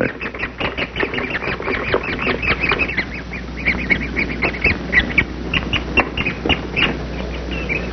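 Great spotted woodpecker nestlings squabbling in the nest hole, a rapid, overlapping stream of short, high squeaky calls from several young birds.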